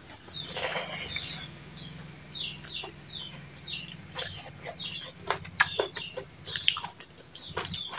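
Close-up mouth sounds of people eating rice and chicken curry with their hands: wet chewing and lip-smacking clicks. Short, high bird chirps repeat in the background.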